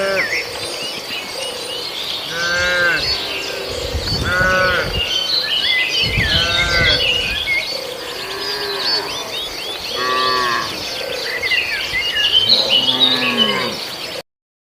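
Cattle mooing, about seven drawn-out calls a second or two apart, over constant chirping of small birds. The sound cuts off suddenly near the end.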